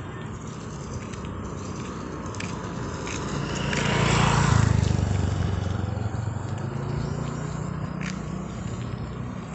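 A motor vehicle passing by on a road, its engine and tyre noise swelling to a peak about four and a half seconds in and then fading away.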